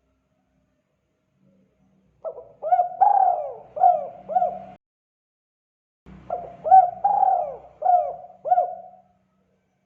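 Spotted dove (tekukur) cooing in the 'kuk 2' call style: two phrases of about five arching coos each, the first a little over two seconds in and the second about six seconds in.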